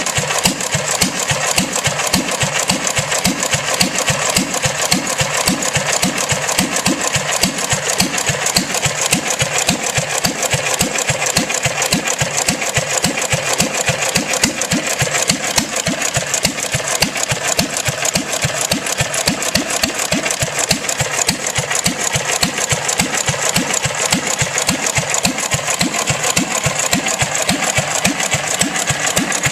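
1 1/2 HP International Harvester Type M throttle-governed stationary gas engine running steadily with an even firing beat and a fast mechanical clatter. Its fuel pump plunger is missing, so it runs on gas poured straight into the carburettor.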